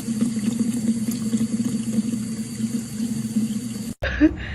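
Tap water running steadily into a bath or sink, with a low hum underneath. It breaks off suddenly near the end, and a short louder sound follows.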